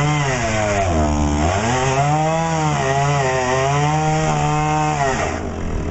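An engine revving up and down in a steady, unbroken run. Its pitch drops low about a second in, climbs back, wavers, and fades out near the end.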